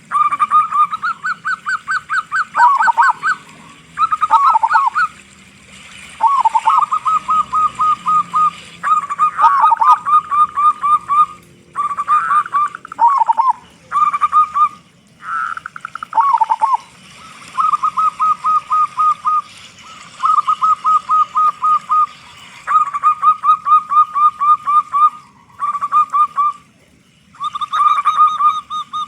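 Zebra doves (perkutut) cooing. They give phrase after phrase of quick staccato coo notes, each phrase one to two seconds long, with short pauses between.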